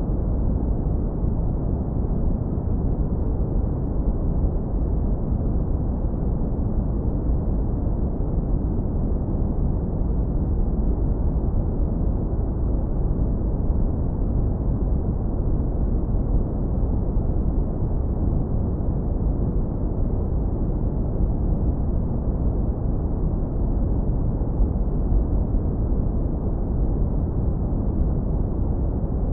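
Synthetic brown noise, heavily low-pass filtered so that only a deep, warm rumble is left, with no treble. It runs steady and unchanging.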